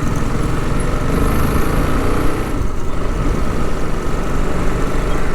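TVS Apache RR 310 motorcycle's single-cylinder engine running steadily at low speed while being ridden.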